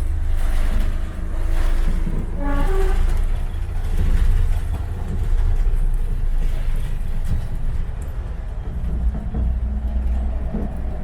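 Steady low rumble of a diesel-hauled heritage train running, with a brief pitched sound about two and a half seconds in.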